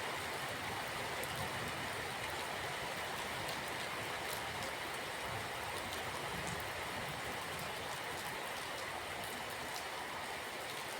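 Steady rain falling, an even rushing hiss with faint scattered drop ticks.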